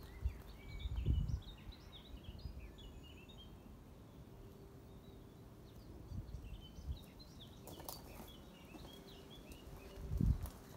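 Small birds chirping and twittering in two spells, with a few low thumps near the microphone, the loudest near the end.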